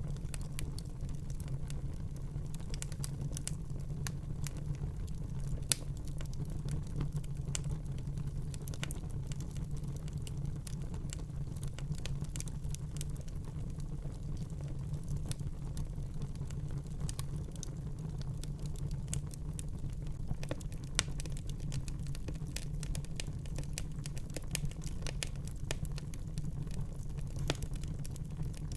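Wood fire burning in a fireplace, crackling with frequent small irregular pops and snaps over a steady low rumble of the flames, with a couple of louder pops.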